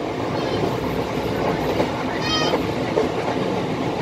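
Train running on the rails at about 60 km/h, a steady rumble of wheels and track. A short high-pitched cry cuts in briefly about two seconds in.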